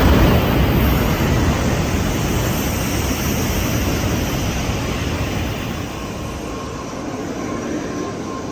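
Shinkansen train pulling into the station: a loud rush of air and rolling noise, loudest at the start and easing off as the train slows. A faint steady high tone comes in near the end.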